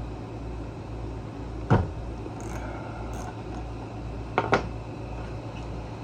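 One sharp knock with a dull thump about two seconds in, then two quick clicks near the end: tools or carburetor parts handled on a workbench during disassembly. A steady low hum runs underneath.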